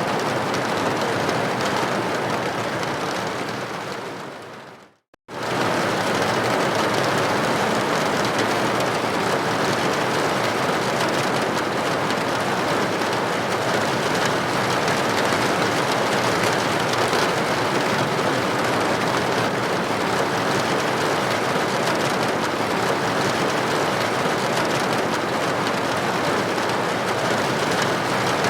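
Steady rain pattering against a building window, an even hiss of many droplets. About four seconds in it fades out to a moment of silence, then comes back suddenly at full level, like a recording being looped.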